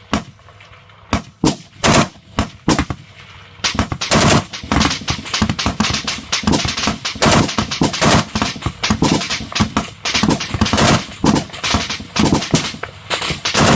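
Gunfire: a handful of separate sharp shots, then from about four seconds in a dense, rapid rattle of cracks that keeps going.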